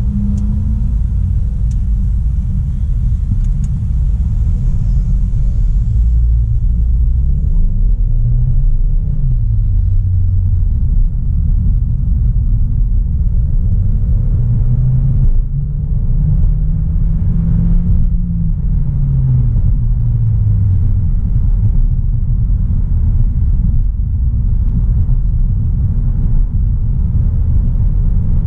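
Audi A3 Sportback 1.4 TFSI's turbocharged four-cylinder petrol engine pulling the car along over a steady low road rumble. Its pitch rises and falls several times through the first two-thirds, then settles.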